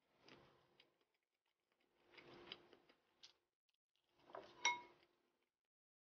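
Faint chewing and mouth smacking from eating a hot roast chicken leg, in three short spells, with one sharp, slightly ringing click about three-quarters of the way through.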